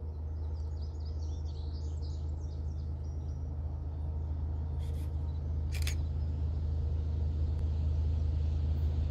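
Low, steady rumble of an approaching diesel locomotive, slowly growing louder. Birds chirp over it in the first few seconds, and there are two sharp clicks about five and six seconds in.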